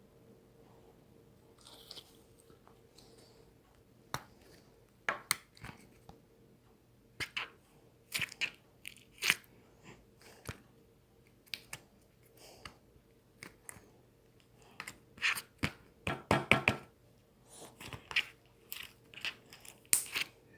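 Irregular sharp crunching clicks, sparse at first and starting about four seconds in, coming in quick clusters with a dense run of crunches a little after the middle.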